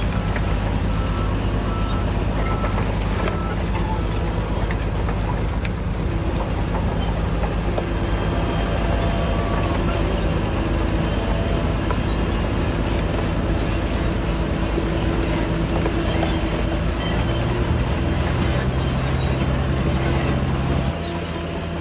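Heavy diesel engine of earthmoving machinery running steadily under load, a little quieter near the end.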